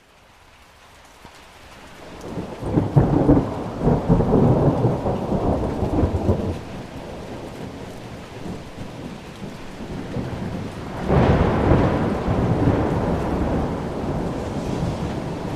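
Thunder over steady rain: a long rumble builds over the first few seconds, and a second peal starts suddenly about eleven seconds in and slowly fades.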